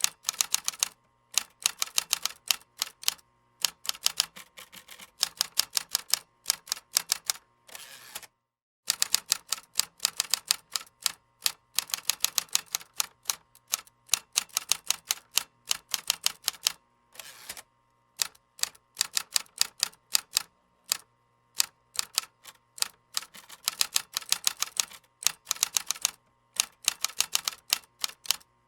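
Keyboard typing: quick runs of keystrokes clicking in bursts, broken by short pauses, with one brief full stop about a third of the way in.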